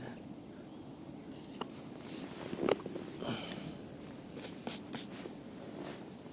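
Faint footsteps with scattered light clicks and rustles over a low steady outdoor background.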